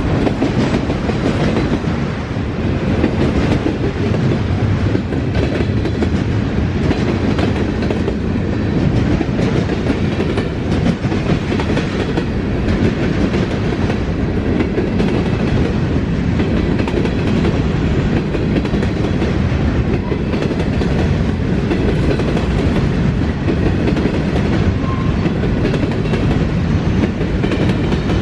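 Freight train rolling past at close range: a steady rumble of railcars with the clickety-clack of wheels over the rail.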